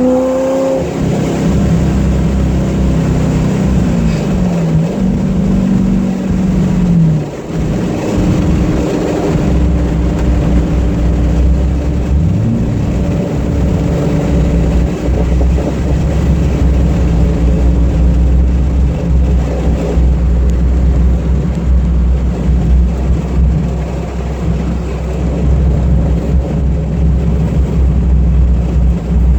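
Twin-turbocharged Chevrolet Corvette Z06 V8 engine. Its revs rise and fall a few times in the first several seconds, then it settles into a steady, deep, even running note.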